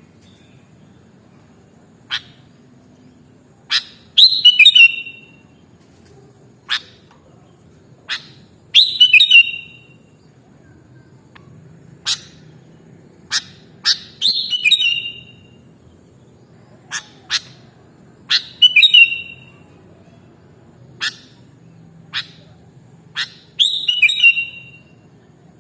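Sooty-headed bulbul (kutilang) singing: sharp single call notes, and five times a brief phrase of several quick falling notes, repeated about every five seconds.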